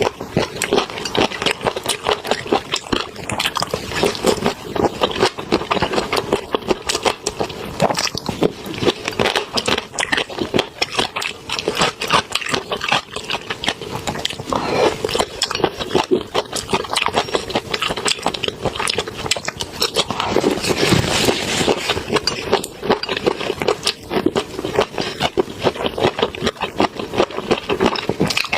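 Close-miked eating sounds of a seafood meal: chewing with a dense, continuous run of wet clicks and crackles.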